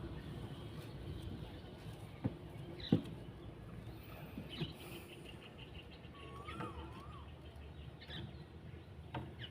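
Outdoor bird calls: a whistled note that rises and falls, given twice in quick succession past the middle, and thin high chirps, over a steady low rumble of wind or water. Two sharp clicks come a little over two seconds in and again just under three seconds in.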